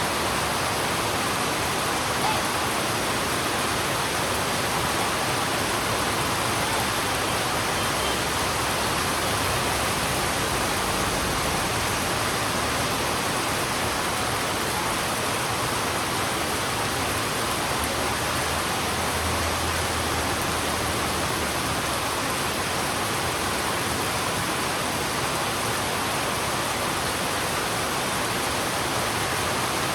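Heavy rain falling on a road, a steady, even hiss with no breaks.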